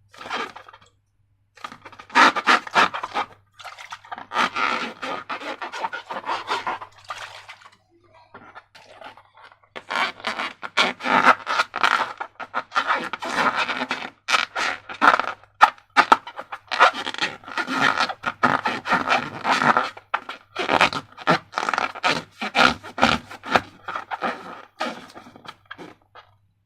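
Slime being squeezed and worked by hand against balloon rubber: irregular sticky crackling and rubbing noises. There are short pauses near the start and about a third of the way in.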